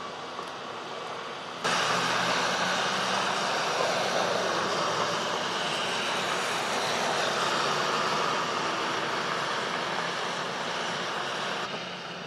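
Steady vehicle and street noise with a low engine hum underneath. It starts abruptly about two seconds in and drops away near the end.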